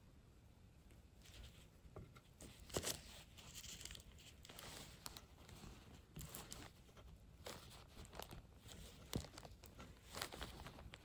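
Faint, irregular handling sounds: light clicks, scrapes and rustles of hands working with small materials, with one sharper click about three seconds in.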